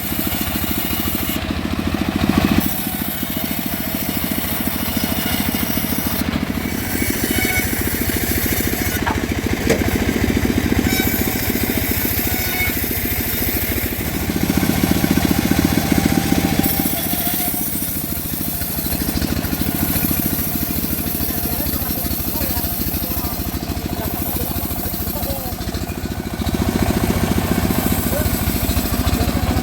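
Homemade engine-driven sawmill running while sawing mahogany. The machine's steady running swells in loudness a few times, about two seconds in, midway and again near the end, as the cut loads it.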